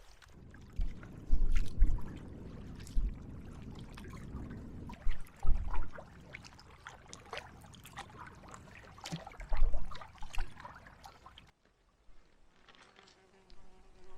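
Kayak-style double-bladed paddle dipping and splashing as a canoe glides along a narrow creek, water dripping and trickling off the blades, with several loud low thumps. About three-quarters of the way through the sound drops off suddenly to a faint, steady insect buzz.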